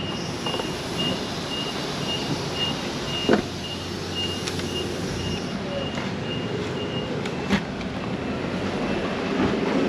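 Steady noise of a running truck with a repeating high-pitched electronic beep that stops about seven seconds in. Two sharp knocks, about three and seven seconds in.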